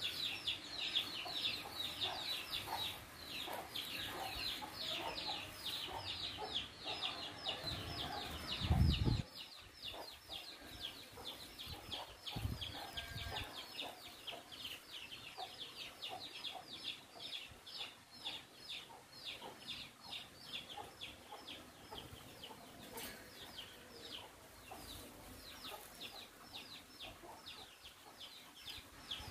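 Birds chirping in a fast, unbroken run of short high chirps, about four a second. A low thump about nine seconds in is the loudest sound, and a weaker one follows a few seconds later.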